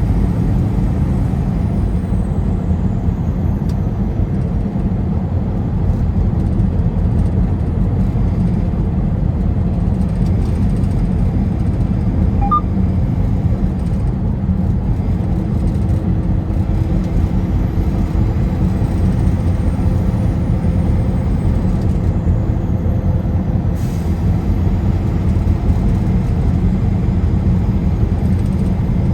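Steady road noise of a car cruising on a highway: a continuous low rumble of tyres and engine. A faint steady hum joins it for a few seconds past the middle.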